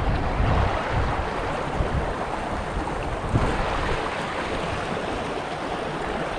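Jemez River water rushing steadily, with a few short low thumps on the microphone.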